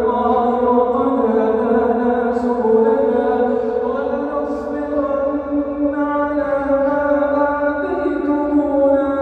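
A male Quran reciter's voice holding long, drawn-out melodic notes in tajwid chanting. The pitch steps to a new note a few times.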